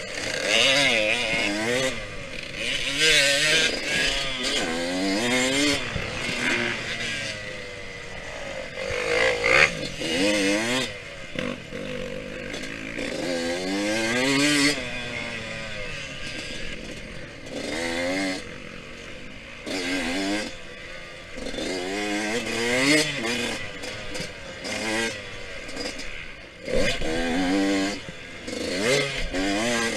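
Yamaha YZ125X single-cylinder two-stroke dirt bike engine being ridden hard, its pitch climbing on the throttle and dropping off again many times over as it accelerates, shifts and slows for corners.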